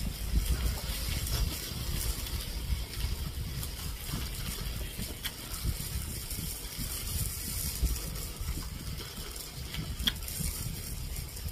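A person chewing a mouthful of food, heard close, over a steady low rumble, with a couple of faint clicks.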